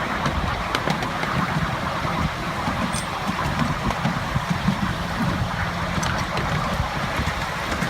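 Miniature railway train in motion: a steady low rumble with scattered light clicks.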